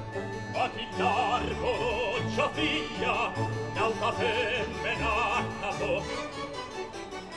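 Background music: a voice singing in an operatic style with wide vibrato over orchestral accompaniment, the voice coming in about half a second in.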